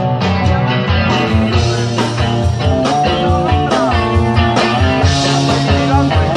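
Rock band playing live, guitar-led, over a steady low beat.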